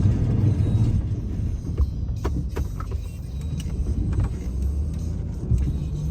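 Snowplow vehicle's engine running with a steady low rumble, with a few short sharp clicks about two to four seconds in.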